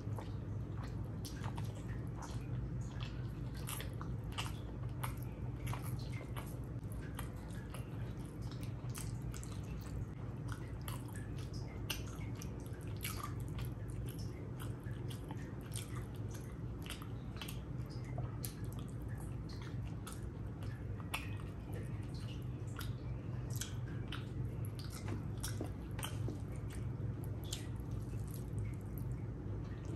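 A person chewing and eating rice and curry close to the microphone: wet mouth smacks and frequent small clicks, over a steady low hum.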